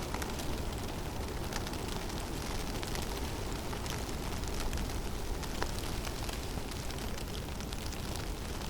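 Snowstorm wind blowing steadily through a forest as a low, even rumble, with scattered faint ticks throughout.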